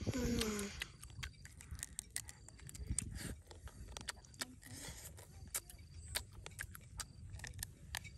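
Someone chewing and biting cooked crab: many small sharp crunches and clicks of shell breaking between the teeth, with a short voiced sound at the very start.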